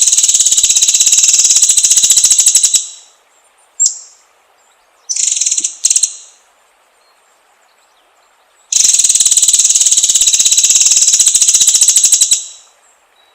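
White-rumped shama singing: two long, loud, very rapid rattling trills of about three and a half seconds each, with a short sharp whistle and a brief chattering phrase between them.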